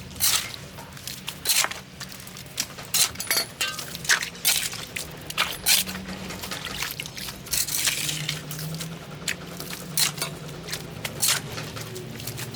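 Water splashing and squishing in irregular wet slaps and scrapes, a few each second, over a low steady hum.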